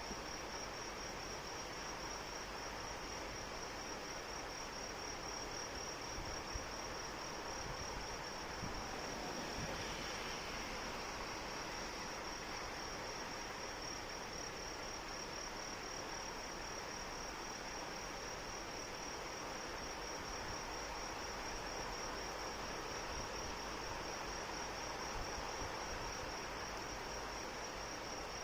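Steady rain with a cricket trilling without a break, a fast, even, high-pitched trill over the rain's hiss.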